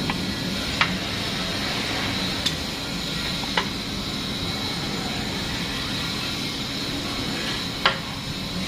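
Engine running steadily, with a few sharp, irregularly spaced clicks over it. It is an engine that the mechanic judges, from its heavy knock and loud noise, to need a general overhaul.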